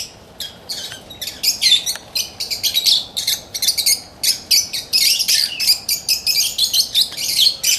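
A flock of small parakeets chirping: many short, high calls overlapping almost without a break.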